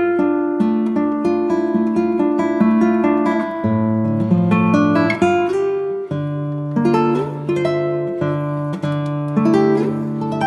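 Background music: an acoustic guitar plucking a melody over bass notes, with some slides between notes.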